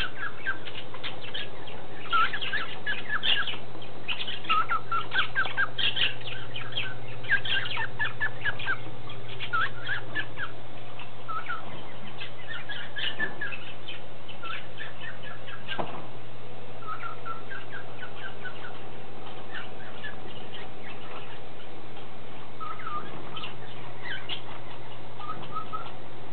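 Pet cockatiels and parakeets chirping in quick, short calls, busy at first and thinning out over the second half, over a steady low hum. One sharp click midway.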